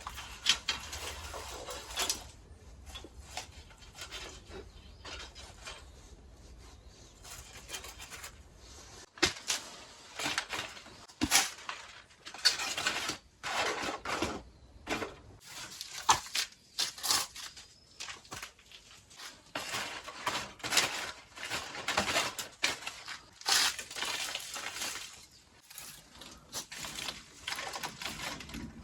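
Irregular crackling and crunching in short bursts from a campfire being tended.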